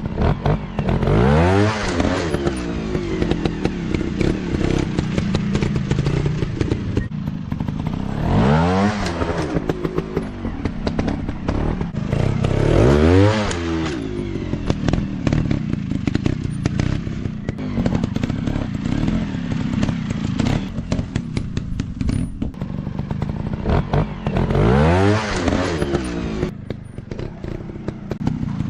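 Dirt bike engines running, revving up and easing off about four times in rising-then-falling sweeps, with clattering knocks throughout.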